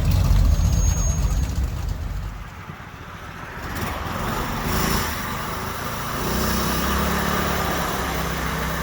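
A vehicle engine rumbling loud and low, fading away over the first two and a half seconds. About six seconds in, another engine settles into a steady idle.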